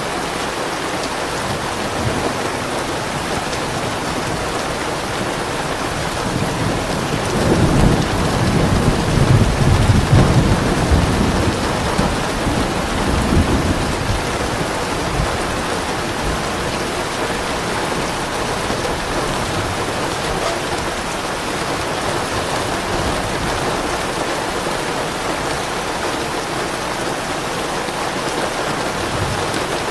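Steady rainfall with a low roll of thunder that swells in about seven seconds in, rumbles for several seconds and fades away.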